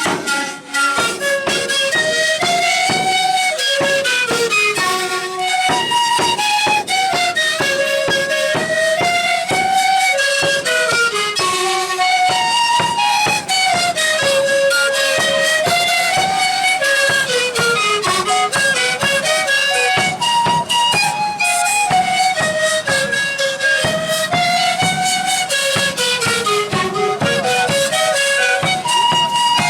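Andean folk music: a flute melody of short stepping notes, rising and falling, over steady drumming.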